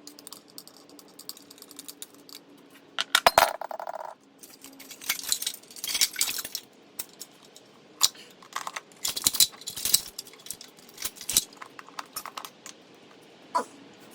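Metal hand tools and engine parts clinking and clattering during the teardown of a Ford 302 Windsor V8, with a loud ringing metal knock about three seconds in.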